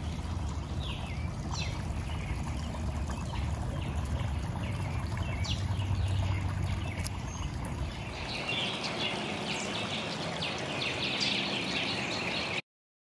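Small wild birds chirping in short, downward-sliding calls over a low steady rumble. About eight seconds in the rumble drops away and the chirping grows busier. Shortly before the end the sound cuts out completely.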